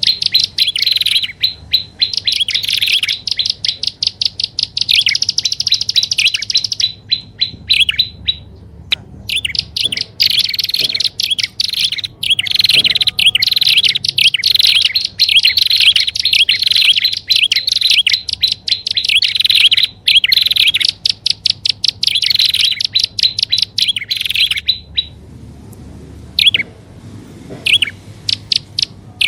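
Prinias (prenjak) calling on a bird-lure recording: long, fast trains of sharp, high chirps, repeated in bursts with short breaks. There is a pause about 8 s in, and only scattered single notes for the last few seconds.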